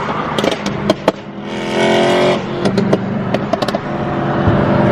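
BMW M3 V8 engine through a catless, valved Valvetronic aftermarket exhaust: sharp pops and crackles, a short rev about a second and a half in, then the engine settles into a steady running note with more pops. The pops are the 'gunshot' burbles of the engine tune.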